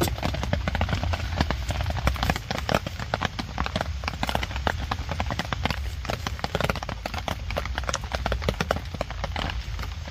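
Rain pattering on a camping tarp overhead: a dense, irregular, unbroken tapping of drops over a low rumble.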